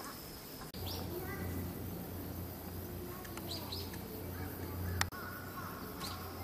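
Outdoor ambience with scattered short, high chirps of small birds over a low steady hum.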